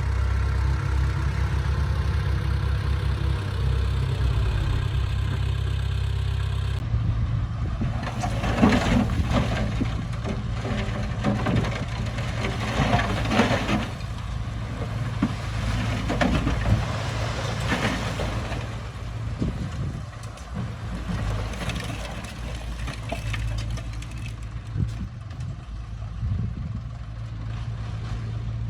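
Diesel engine of heavy earthmoving machinery running steadily. About seven seconds in the sound changes abruptly, and several louder rough surges follow over the next ten seconds before it settles back to steady running.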